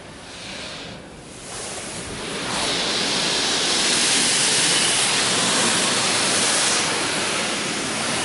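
High-pressure water jets from a touchless car wash's gantry arm spraying over the car, heard from inside the cabin as a hiss of water drumming on the body. It swells about two and a half seconds in as the arm passes close, then eases a little near the end. This is the spot-free rinse stage.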